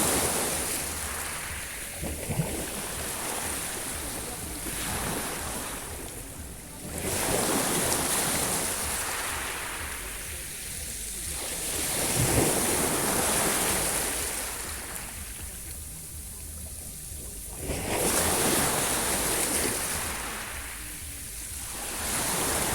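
Sea surf: waves breaking and washing in, a surge about every five seconds, each swelling up and then fading away.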